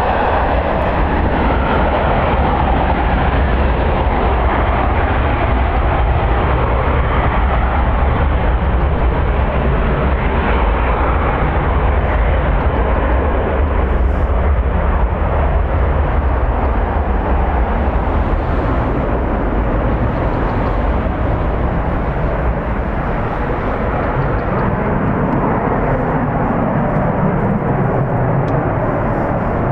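Strong wind rumbling on the microphone over the steady noise of jet airliner engines. The low wind rumble eases about two-thirds of the way through.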